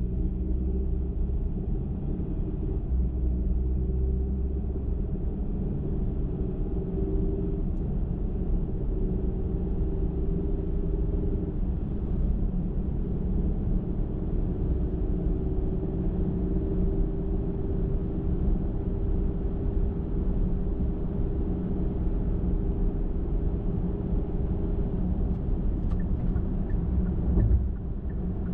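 Car driving at highway speed: a steady, low rumble of engine and tyres on the road, with a faint, even drone in it. A few faint ticks come near the end.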